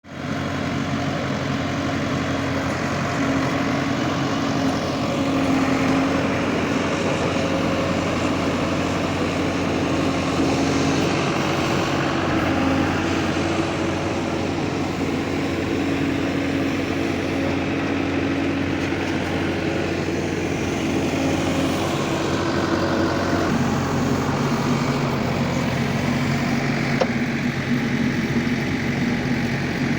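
Diesel engine of a working construction machine (JCB / Manitou type) running steadily. Its note shifts about three-quarters of the way through.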